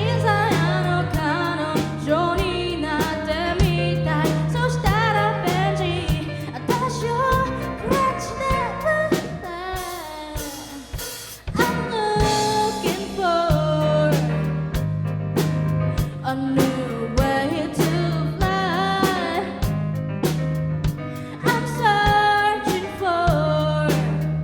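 Live band performing a pop song: a singer's voice over drum kit, bass and keyboard, with the band thinning out briefly about halfway through before coming back in full.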